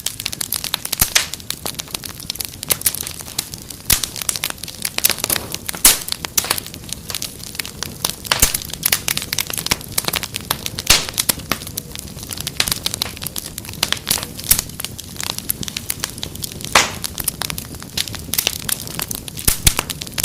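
Fireplace fire crackling steadily: a dense, irregular run of small pops and snaps over a low hiss, with a few louder pops about six seconds in and again about seventeen seconds in.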